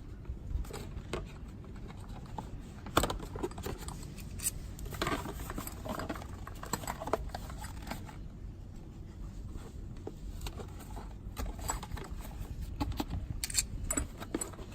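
Bolts being loosened and pulled out of the motorcycle engine by hand, with sporadic light metallic clicks and scrapes of tools and small parts being handled over a low steady hum. The sharper clicks come about three seconds in and again near the end.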